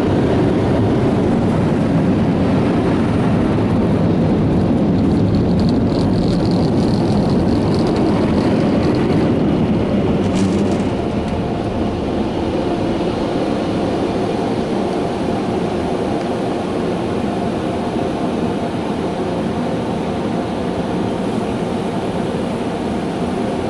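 Automatic car wash dryer blowers running over the car, heard from inside the cabin: a loud, steady rush of air that eases a little about eleven seconds in.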